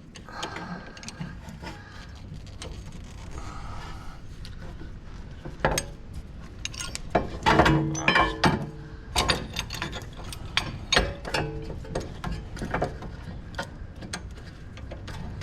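A clamp being worked on a rear brake caliper to push the piston back in: metal clicks, clinks and rubbing, with a busy run of sharper knocks in the middle of the stretch.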